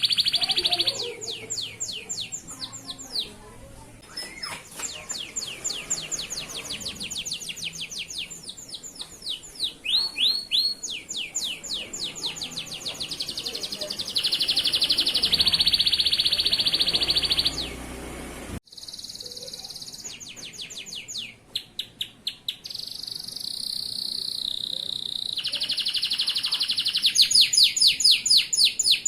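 Male canary singing a long, fast song: rapid trills of repeated chirps alternating with held rolling tones. The song breaks off sharply about two-thirds of the way through and then resumes.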